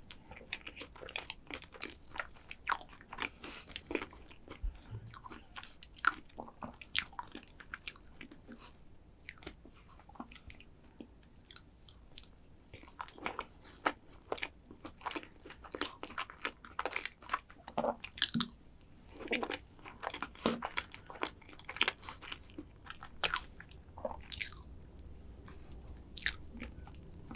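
Close-miked eating sounds: a person biting and chewing a crunchy chocolate dessert, with many short, irregular crisp crackles.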